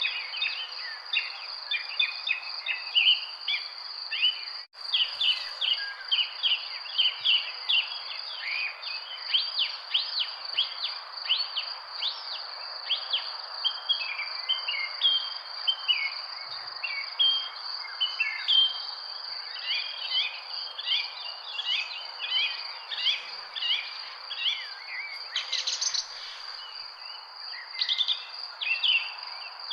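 Many small birds chirping and twittering in quick, overlapping calls over a steady high-pitched insect trill, with a soft hiss of background noise. About five seconds in, the sound cuts out for an instant.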